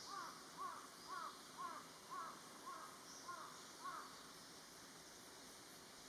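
A bird calling in the distance: a run of about eight short calls, about two a second, that stops about four seconds in.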